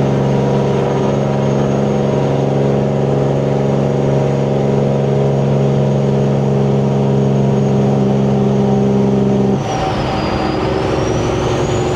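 Semi truck's diesel engine pulling steadily through 8-inch exhaust stacks with a high turbo whistle. About three-quarters of the way through the throttle is let off: the engine note drops away suddenly and the turbo whistle dips, then climbs steadily.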